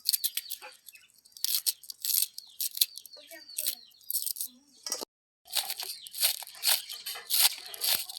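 Rapid, irregular crisp tearing and crunching strokes, with a short break to silence about five seconds in.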